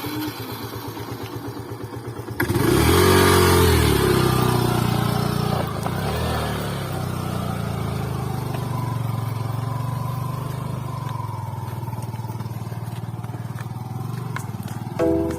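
Motorcycle engine running, then revving hard about two and a half seconds in before settling into a steady pull up a steep, rough road.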